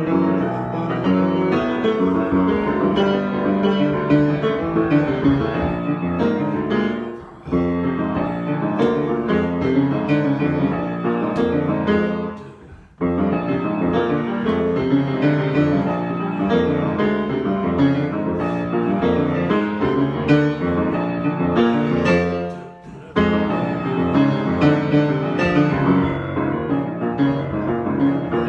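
Piano improvisation: a dense, continuous run of notes and chords, easing off briefly about 7 and 23 seconds in and breaking off abruptly before resuming about 13 seconds in.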